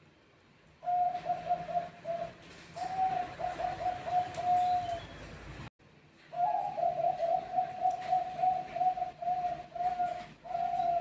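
Zebra dove (Bangkok-type perkutut) cooing: long phrases of quick, rolling coo notes, a short gap about halfway, then a second long phrase.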